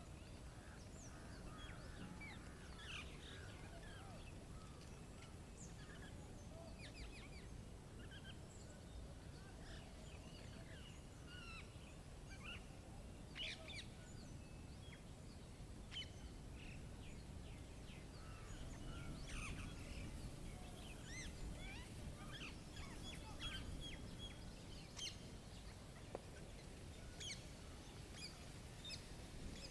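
Woodland birdsong: many birds chirping and calling in short, scattered phrases over a steady low rumble.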